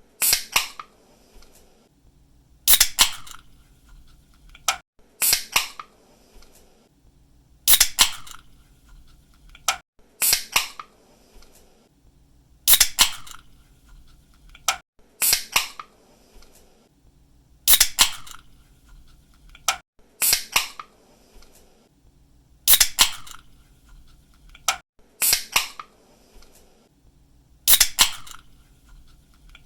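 A drink can's pull tab snapping open with a short hiss, again and again, about once every two and a half seconds.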